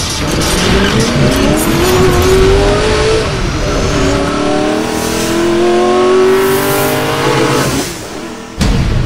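A race-car engine sound effect accelerating hard: its pitch climbs, drops at a gear change about four seconds in, and climbs again before fading, with a sudden loud hit near the end.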